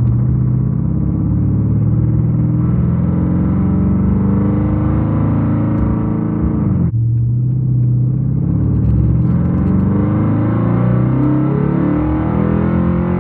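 Car engine and loud exhaust running under way, the pitch climbing as it pulls, then dropping sharply about seven seconds in, as at a gear change, and climbing again.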